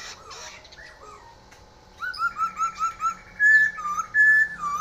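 Songbird singing: after a quiet start, a quick run of five rising-and-falling chirps, then long, clear, loud whistled notes.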